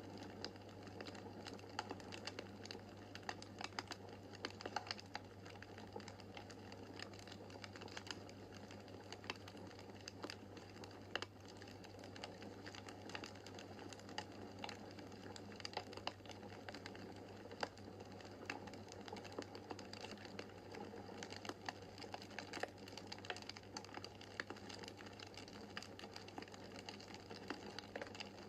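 Wood fire crackling in a fireplace: dense, irregular small pops and snaps over a steady low hum.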